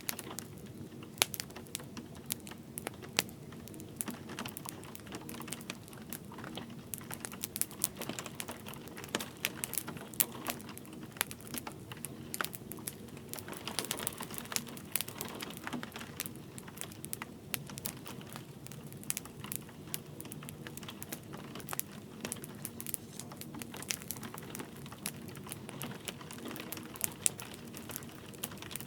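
Wood fire crackling, with irregular sharp pops and snaps scattered throughout, over a soft steady wash of light rain.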